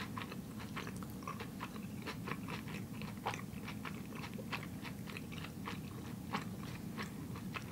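Close-miked chewing of a mouthful of sushi with the mouth closed: a steady run of faint, irregular wet clicks and smacks.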